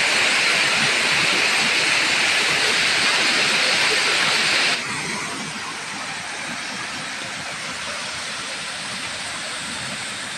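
Waterfall water rushing as a steady hiss of noise. About five seconds in it drops suddenly to a quieter, duller rush.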